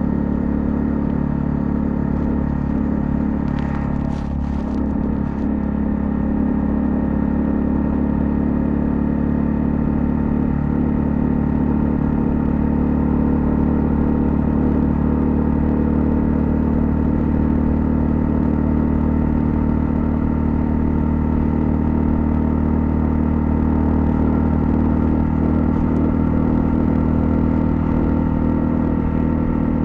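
Honda CL250's single-cylinder engine running at a steady cruise, its pitch nearly constant, with a few faint ticks about four seconds in.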